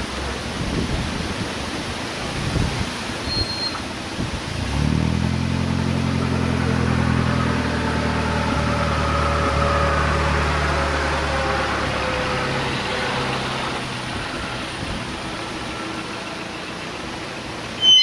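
A 1931 Swift Crusader's engine running steadily out of sight. It grows much louder about five seconds in, holds for several seconds, then dies away. A sharp click comes at the very end.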